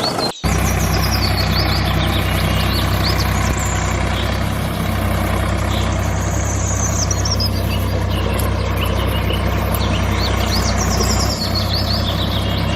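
Engine idling steadily with a low, even hum that starts abruptly about half a second in, with birds chirping over it.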